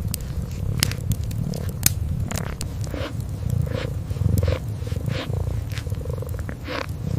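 A kitten purring steadily in a low, continuous rumble, with a wood fire crackling in sharp, scattered pops over it.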